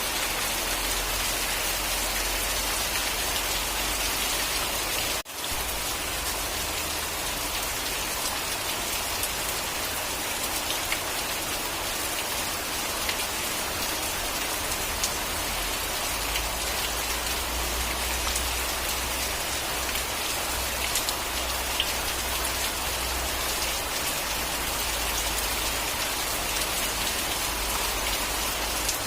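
Steady, heavy rain falling on a surface: a dense, even hiss with scattered individual drop ticks. The sound dips out for an instant about five seconds in.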